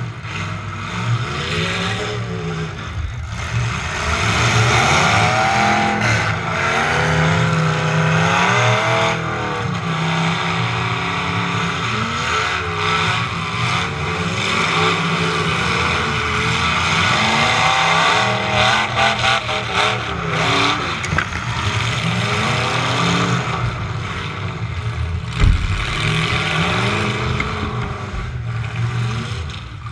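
Demolition derby truck engine heard on board, revving up and down over and over with a lot of rattle and noise. Near the end there is a single sharp thump.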